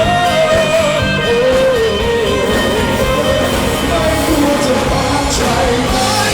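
Live pop-rock band music with guitar, a wavering melody line over a steady accompaniment.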